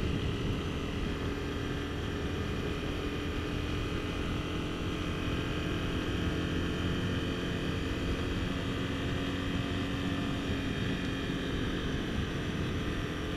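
Honda CBR250R single-cylinder motorcycle engine running steadily at cruising speed, heard from the rider's seat with road and wind noise.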